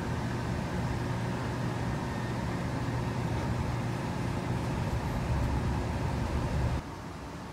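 Steady low rumble and hum inside a limited-express electric train car as it draws to a stop at a platform. It cuts suddenly to a quieter hum shortly before the end.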